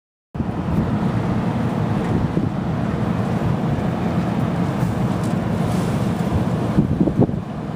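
Wind buffeting the microphone: a steady low rumble after a brief silence at the start, with a few sharp knocks about seven seconds in.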